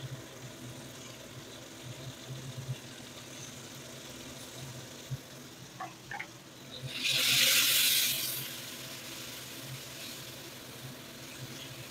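Ground chili sambal sizzling in hot oil in a wok with fried shallots and garlic, over a steady low hum. A few light clicks come about five to six seconds in, then a louder burst of sizzling lasting about a second and a half.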